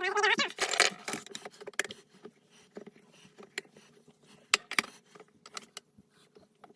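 A short voice-like sound in the first second, then scattered sharp metallic clicks and clinks, typical of tools and steel parts of a 231J transfer case being handled on a bench.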